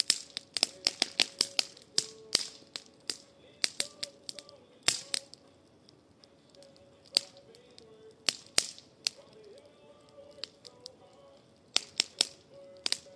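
Burning firewood in a campfire crackling and popping with sharp, irregular snaps, densest in the first couple of seconds and coming again in clusters about five, eight and twelve seconds in.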